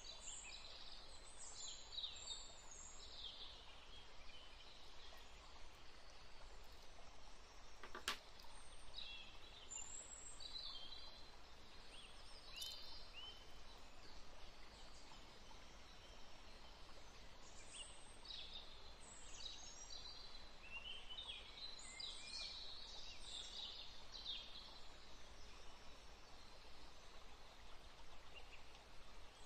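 Birds chirping faintly over a steady background hiss, with many short high calls coming and going, and a single sharp click about eight seconds in.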